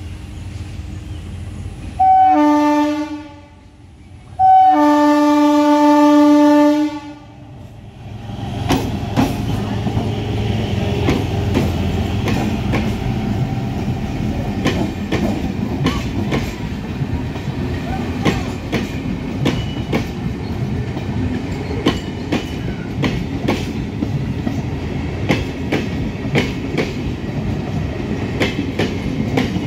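MEMU electric train sounding its horn twice, a short blast and then a longer one, as it approaches. It then runs past close by with a steady rumble and a rapid clickety-clack of wheels over rail joints as the coaches go by.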